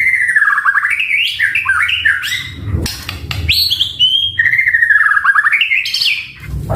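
White-rumped shama (murai batu) singing loud, varied song: two rapidly trilled phrases that sweep down in pitch, with quick changing notes and a few sharp clicks between them.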